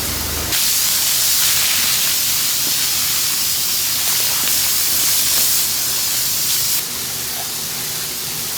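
Loud steady hiss of steam from oysters in their shells cooking over a wood fire. It starts suddenly about half a second in and eases a little near the end.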